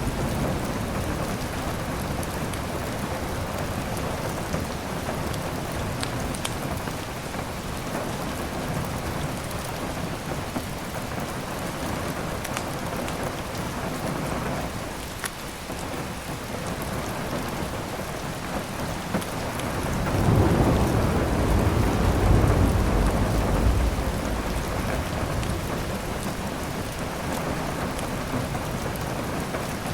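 Steady heavy rain, with a low roll of thunder that swells about two-thirds of the way through and then fades back into the rain.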